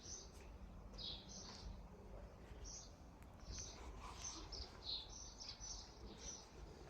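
Small birds chirping: short, high chirps repeated every half second or so, with a faint low rumble underneath.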